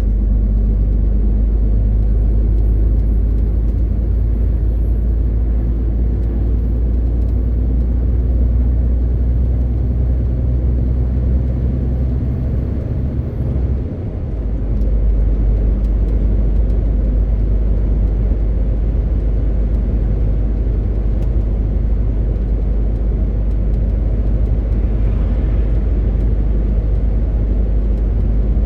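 MAN TGX 18.520 truck's diesel engine running steadily under way, with road and tyre noise. The engine note dips briefly about fourteen seconds in, then carries on steadily.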